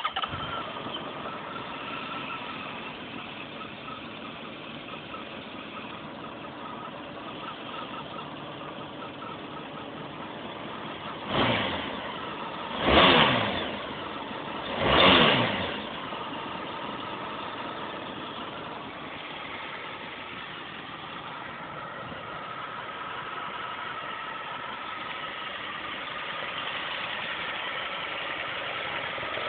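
Honda VFR1200F's V4 engine catching and starting, then idling. A little under halfway through it is blipped three times in quick succession, the revs rising and falling each time, with the last two blips the loudest, before it settles back to idle.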